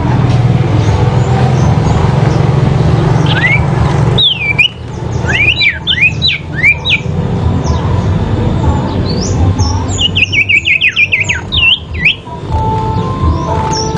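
Sirpu (velvet-fronted nuthatch) giving fast, sharp chirping calls in two quick runs, the first about four seconds in and the second about ten seconds in, as in a calling duel. A loud low rumble fills the first four seconds.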